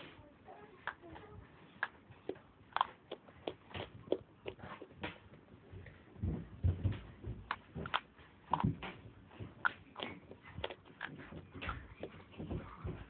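A person biting and chewing dry white clay bars: irregular crisp crunches and cracks, a few a second, denser and louder about halfway through.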